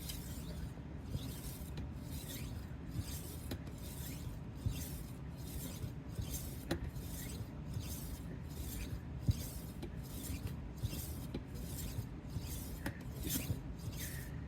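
A rolling knife sharpener's 10,000-grit disc rolled back and forth along the edge of a 12-inch Henckels chef knife, a rasping hiss repeated about two strokes a second.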